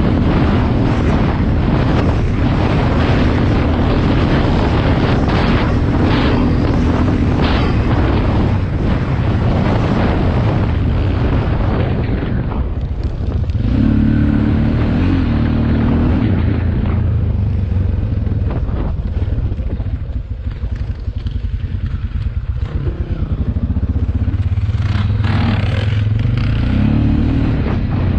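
Motocross motorcycle engine running, its pitch rising and falling as the throttle opens and closes. A rushing, crackling noise lies over it for roughly the first twelve seconds.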